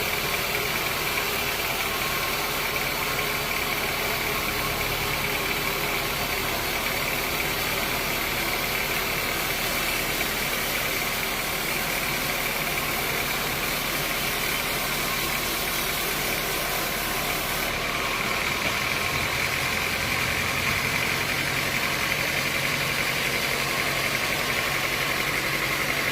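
Sawmill machinery running steadily: a continuous mechanical hum with a high whine that grows slightly louder about two-thirds of the way through.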